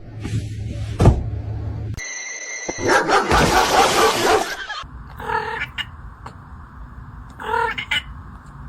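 A small dog yipping twice in short, high calls, after a loud noisy stretch and a few brief beeps.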